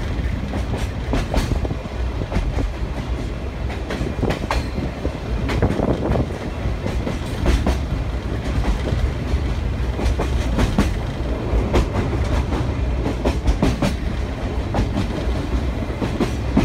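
Sagano Scenic Railway sightseeing trolley train running along the track, heard from inside the carriage: a continuous low rumble with irregular sharp clacks of the wheels over the rails.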